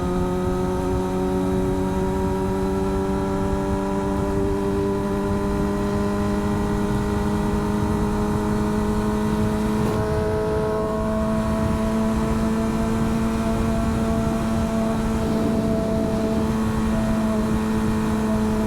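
Vehicle engine pulling at a steady cruise, its even drone creeping slowly up in pitch, over constant road and wind noise.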